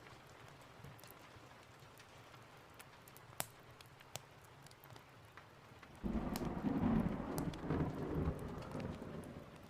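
Steady heavy rain hiss with a few sharp clicks. About six seconds in, a thunderclap breaks in suddenly and rolls as a loud low rumble for about three seconds, fading near the end.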